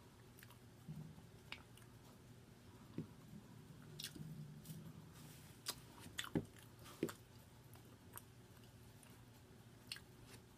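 A person chewing a mouthful of homemade cheese slider and fries: faint, irregular wet mouth clicks every second or so, over a steady low hum.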